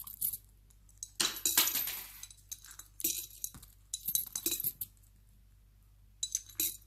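Coins clinking into a piggy bank: a rattling clatter about a second in, then several separate clinks spaced a second or so apart.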